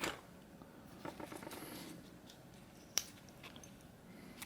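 Quiet handling of small tools and parts on a workbench: faint rustling and light taps, with one sharp click about three seconds in.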